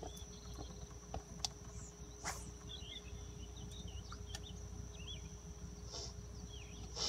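A steady high-pitched insect drone, with a few faint bird chirps. A few light clicks and one brief swish about two seconds in.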